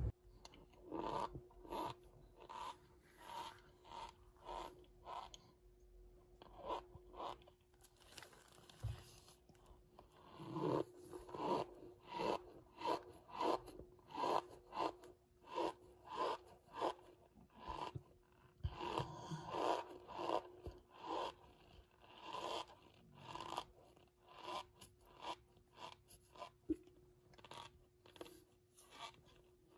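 Cornstarch being crunched over and over, with short crackly crunches coming about one to two a second and thinning out twice. A faint steady hum runs underneath.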